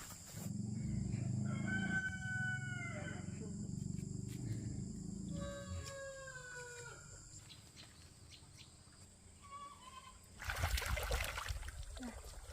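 Rooster crowing twice, each crow a long drawn-out call that drops in pitch at its end, over a low rumble. A burst of noise comes near the end.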